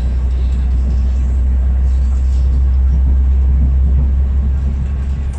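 Steady low rumble of a diesel multiple-unit train running along the line, heard from inside the carriage.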